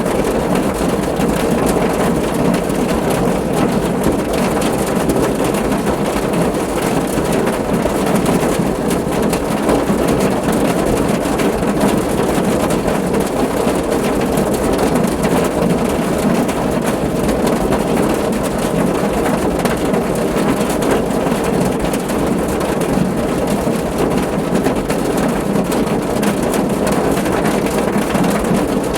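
Steady heavy rain falling on a car's roof, a dense, unbroken patter of drops with a full, low body.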